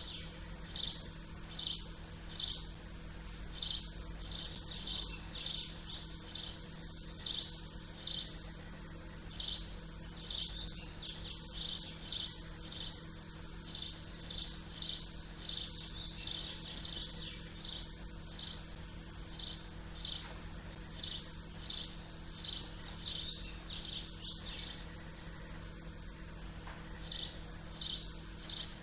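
Small songbirds chirping: short, high chirps repeating about once or twice a second, over a steady low hum.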